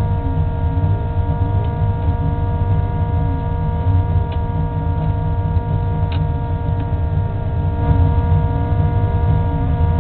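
Race car engine idling, heard from inside the stripped, roll-caged cabin: a steady low rumble with constant tones above it and a couple of faint clicks about four and six seconds in.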